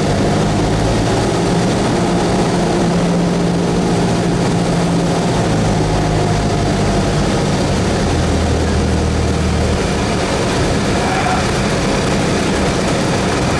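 Cessna 172S's four-cylinder Lycoming engine and propeller running steadily. A higher, thin steady tone joins near the end.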